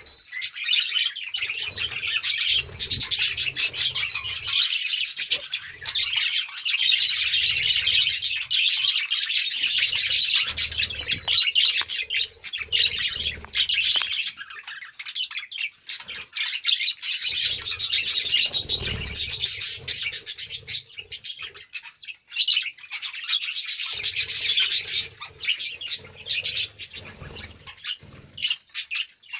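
A colony of budgerigars chattering and warbling nonstop, a dense high twittering that swells and dips, with intermittent low sounds beneath it.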